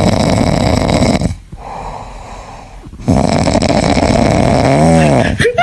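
Loud snoring: two long rattling snores with a quieter breath between them. The second ends in a short whistling tone that rises and falls.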